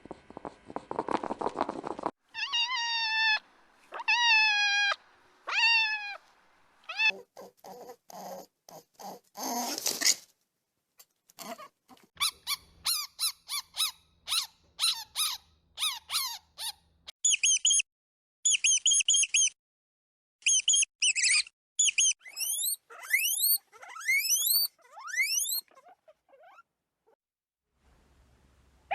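A run of different young animals' calls, one clip after another: a few falling, kitten-like mews, then rapid high chirps and, near the end, a string of quick rising high peeps.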